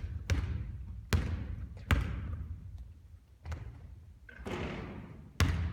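Basketball hitting a hard court floor in four sharp, echoing bounces: three in quick succession, a brief rushing sound, then a fourth bounce near the end.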